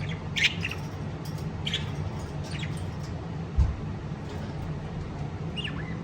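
Pet lovebirds giving scattered short, high chirps over a steady low hum, with a single low thump about halfway through.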